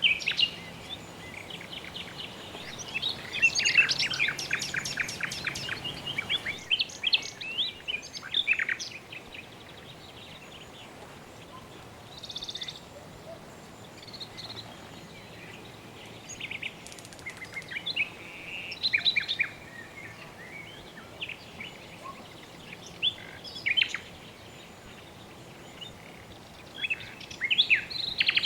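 Several birds chirping and trilling over a faint steady background hiss, with a busy flurry of calls a few seconds in, another around two-thirds of the way through, and a rapid trill near the end.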